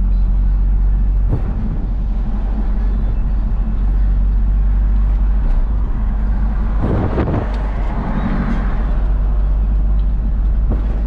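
Isuzu FRR90 truck's diesel engine running steadily under way, with road noise. About seven seconds in, a louder rushing swell rises and fades over a second or two.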